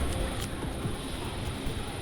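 Heavy machinery running: a steady, noisy low rumble with no clear pitch.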